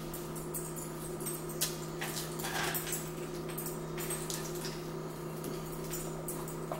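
Close-up eating sounds: chewing and small mouth noises of fried shrimp being eaten, with a few soft clicks, over a steady low hum.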